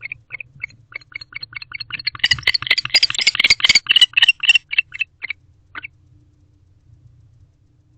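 Barn owl giving a rapid string of short chirping calls, about three or four a second, that swell into a louder, denser chatter in the middle and stop about six seconds in.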